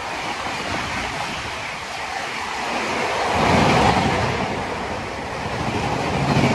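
Indian Railways express train's coaches rushing past at speed: a steady rush of wheel-on-rail noise and wind, swelling louder about three and a half seconds in.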